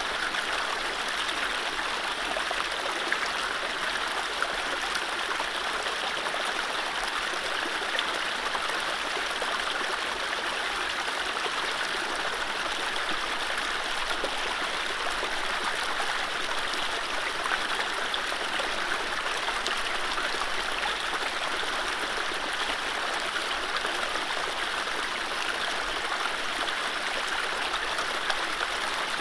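A mountain stream running steadily over low rapids: an even, continuous rush and babble of water with no birdsong.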